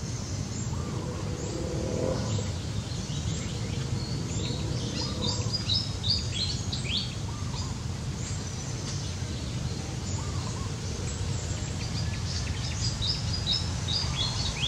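Small birds chirping in quick, short high calls that come in clusters, thickest in the middle and near the end, over a steady low background rumble.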